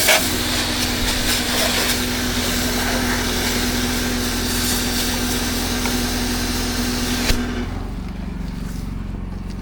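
Pressure washer running with its high-pressure spray hissing steadily. About seven seconds in, the spray cuts off suddenly and the engine drops to a lower, steady speed.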